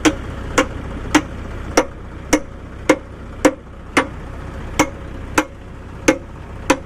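Steady series of hammer blows, about a dozen, a little under two a second, over a low rumble.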